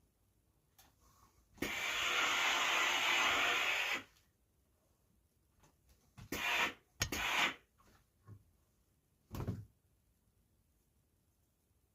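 Steam iron hissing out a burst of steam for about two seconds, then two shorter hisses; near the end, a single dull thump.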